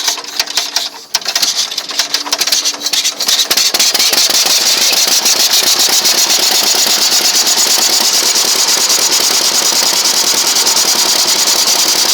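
T-28 tractor engine starting: uneven firing for the first three seconds or so, then catching and running steadily with a fast, even beat.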